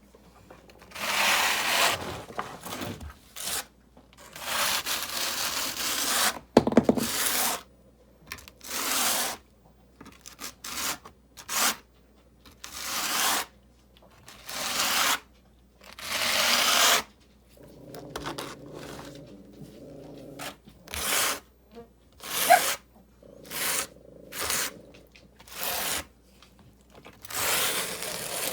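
Repeated hand scraping and rubbing strokes on mortar and river rock, each about a second long with short pauses between them. A sharp knock comes about seven seconds in.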